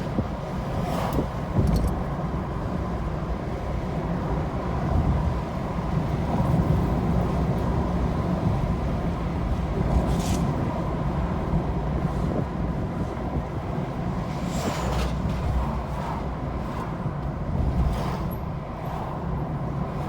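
A car driving along a road, heard from inside the cabin: a steady low rumble of engine and tyres, with a few short knocks or clicks now and then.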